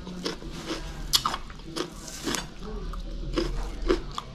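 Close-miked chewing of raw vegetables, with irregular crisp crunches and wet mouth sounds.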